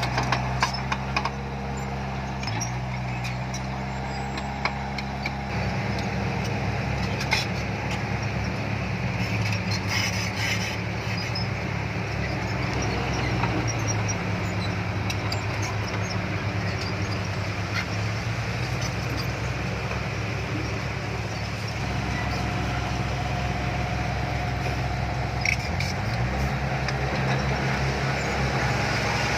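Heavy diesel engine of earthmoving machinery running, its engine speed shifting up and down several times, with a few scattered clanks.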